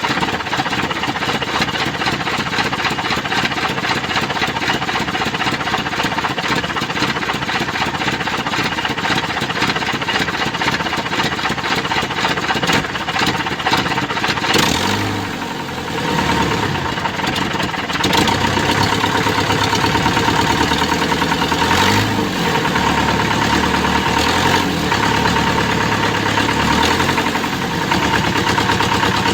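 Mitsubishi Canter's 4D32 four-cylinder diesel engine running, its speed changing about halfway through and running louder for the last third. The exhaust is leaking, by the owner's account.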